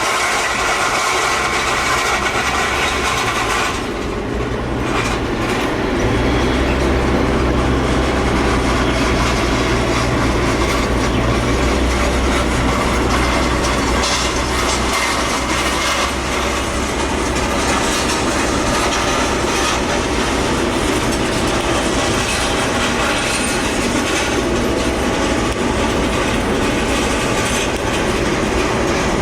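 Jet airliner engines running, a loud steady noise with a deeper low rumble for several seconds in the first half.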